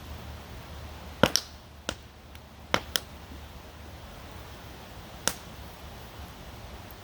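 Wood campfire crackling: about six sharp pops, most of them between one and three seconds in and one more about five seconds in, over a steady rushing hiss like a nearby stream.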